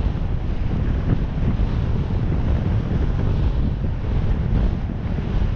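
Wind buffeting the microphone while riding a bicycle, a steady low rumble with no break.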